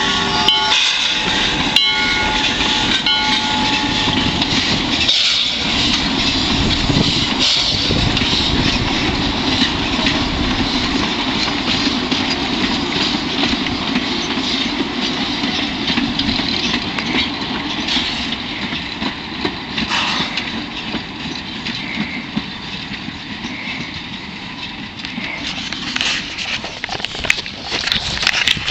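A steam whistle's chord of steady tones dies away in the first few seconds. Then a small-scale steam train's passenger coaches roll past with continuous wheel-on-rail noise and some clickety-clack, fading slowly as the train moves off. A few sharp knocks come near the end.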